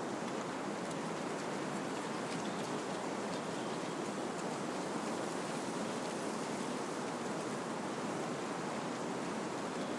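Wind blowing steadily through trees: a constant rushing of leaves and branches with no gusts or breaks.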